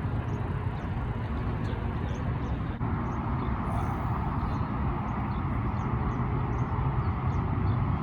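Steady low rumble of vehicle traffic, swelling a little midway as if a vehicle passes, with faint high chirps over it.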